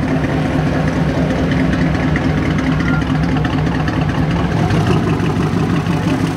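A car engine idling steadily at a low, even pitch.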